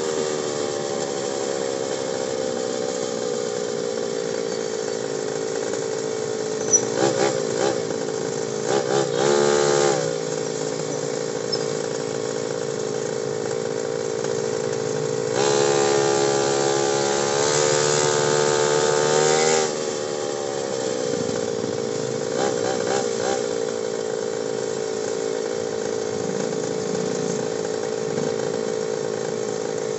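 Motorcycle engine running at low, steady revs while riding slowly in traffic. The revs rise briefly about nine seconds in, then rise higher and louder from about fifteen to nineteen seconds in before dropping back to the steady note.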